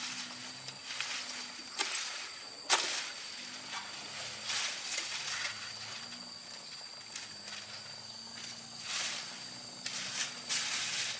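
Steady high insect trill, typical of crickets, with a few sharp knocks and scuffs: two about two and three seconds in and a cluster near the end.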